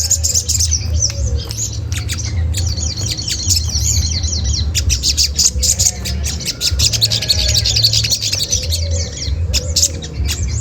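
Olive-backed sunbird giving rapid, dense 'cret cret' chattering calls, a lure call to provoke other birds into answering, over a steady low hum.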